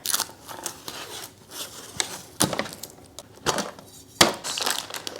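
Packaging of a box of cookies-and-cream wafer cookies being opened and handled: a series of sharp clicks and knocks with rustling between them.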